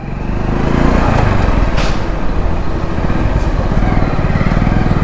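Hero Splendor Plus's 100cc single-cylinder four-stroke engine running, with a steady run of rapid firing pulses that rises in level over the first second.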